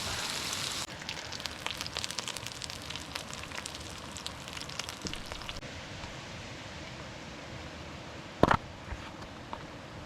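Campfire crackling with many scattered sharp pops, after a short steady hiss at the start. Near the end comes one brief loud knock with a ringing tone.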